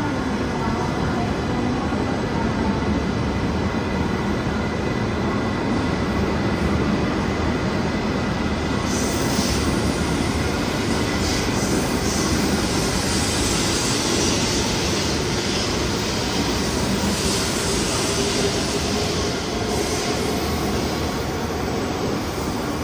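Tohoku Shinkansen E2-series train running past along the platform at low speed: a steady rumble of wheels on rail, with a higher hiss joining about nine seconds in.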